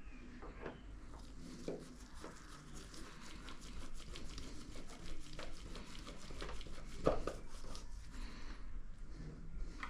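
Scattered small clicks and taps of things being handled, with a sharper knock about seven seconds in, over a low steady hum.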